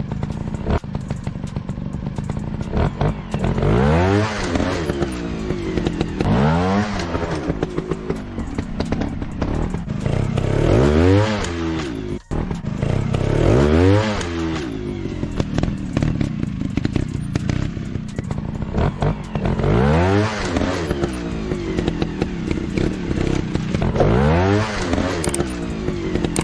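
Trail-bike engine running and revving hard over and over: the pitch sweeps up and back down about six times, every three to four seconds, over the steady engine note, as the throttle is opened and closed.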